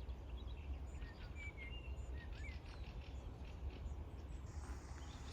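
Faint, scattered short chirps of small birds over a low steady rumble.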